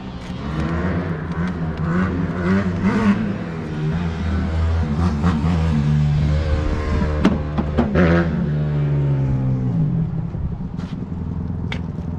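Dirt bike engine revving, its pitch climbing and falling again and again, then dropping back to a lower, steadier note about ten seconds in.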